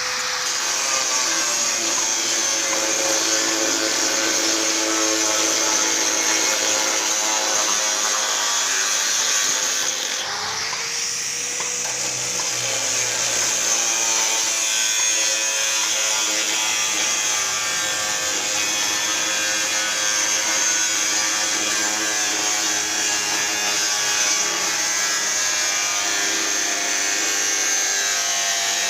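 Angle grinder with a cut-off disc running and cutting through steel plate, a steady high-pitched grinding whine. About ten seconds in it eases briefly and the motor pitch climbs back up before the cutting continues.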